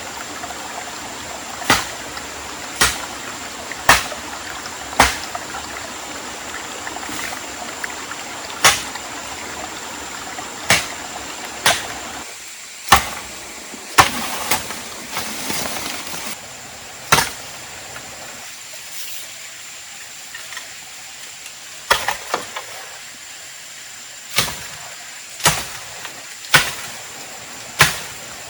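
Repeated sharp chopping strikes of a blade into wood, about one a second in short runs with pauses between, over the steady rush of a stream that drops lower about halfway through.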